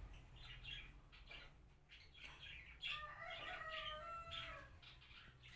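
Birds chirping faintly: a string of short whistled notes that starts about two seconds in.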